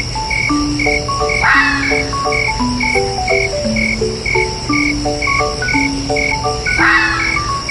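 A night chorus: a steady chirp repeating about three times a second over a low hum, with a slow tune of held notes stepping up and down beneath it. A soft swish comes about one and a half seconds in and again near the end.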